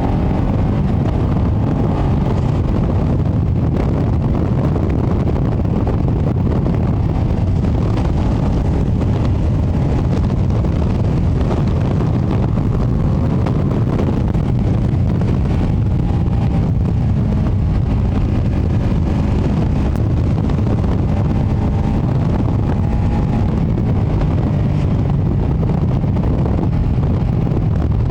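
Ducati Panigale V2S motorcycle with its stock exhaust being ridden. Heavy wind buffeting on the microphone all but covers the V-twin engine, whose note rises and falls faintly underneath.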